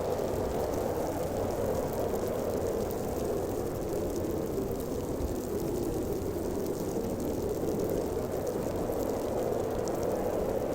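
Strong snowstorm wind blowing: a steady, dense rushing noise with a low-pitched, hollow body that swells and eases slightly.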